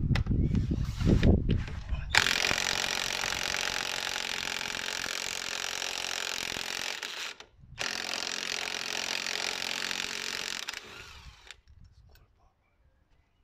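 A few low knocks, then a power tool runs steadily in two long spells broken by a short pause, and winds down.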